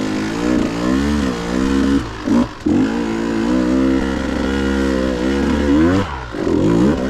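KTM 150 two-stroke dirt bike engine revving up and down as the throttle is worked over rough ground. The revs drop off briefly about two and a half seconds in and again about six seconds in, with quick throttle blips near the end.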